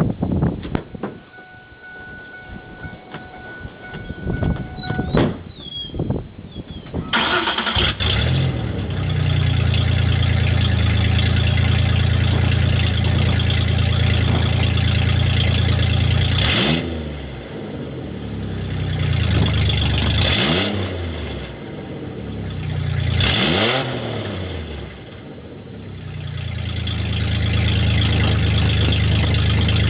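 A 1999 Ford Ranger's 3.0 L V6 with an unfinished, open exhaust starts about seven seconds in after some clicks. It settles into a loud, deep idle that the owner likens to a tractor. About halfway through it is revved three times, each rev rising and falling back, then it returns to a steady idle.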